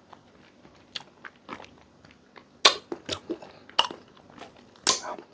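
Close-mic mouth sounds of eating santol (cotton fruit): soft chewing, then a handful of sharp, crisp bites and wet smacks from about halfway in.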